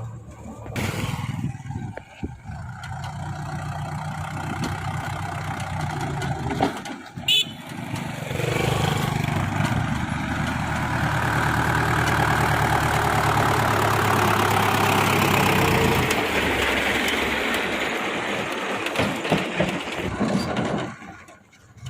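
Tractor engine running steadily with a low, even hum, joined partway through by a louder noisy rush that fades out near the end, with a sharp click in the middle.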